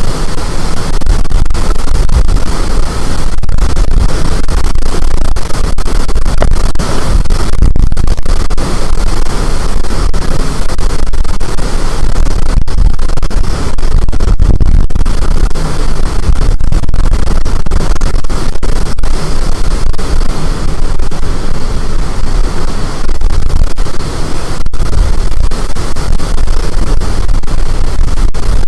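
Storm-force wind blasting the microphone: a loud, unbroken rush of noise with a heavy low rumble and frequent brief dropouts where the recording overloads.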